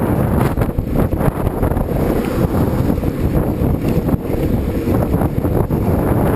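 Wind buffeting the microphone, a loud, continuous rumble.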